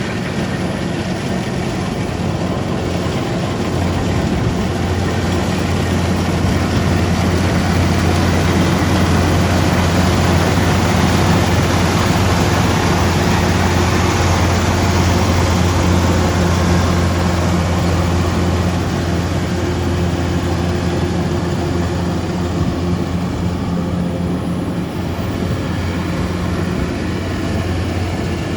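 Diesel engine of a rice combine harvester running steadily, with a continuous mechanical hum that grows a little louder through the middle stretch.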